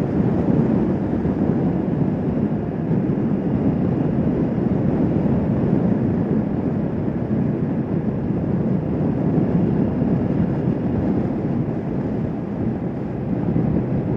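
Kawasaki Vulcan S 650 motorcycle cruising at a steady speed: a constant rush of wind over the microphone, mixed with the engine's even drone, with no change in revs.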